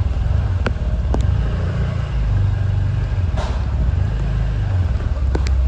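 Vehicle engine running with a steady low rumble, with a few scattered clicks over it.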